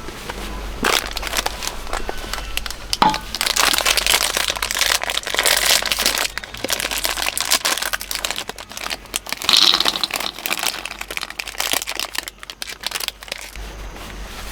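Crinkling and rustling of something being handled, with many small clicks and a sharper knock about three seconds in.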